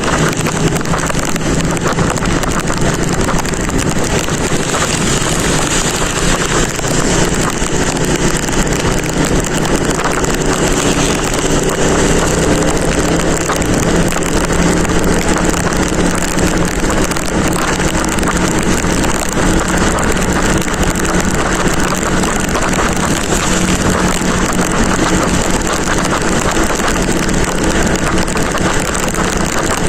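Motorcycle riding at a steady pace in the rain: a steady engine note under loud wind rushing over the microphone.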